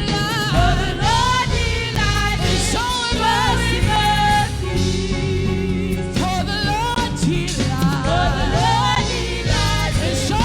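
Live gospel worship music: sung vocals with backing singers over a band with bass and keyboard chords.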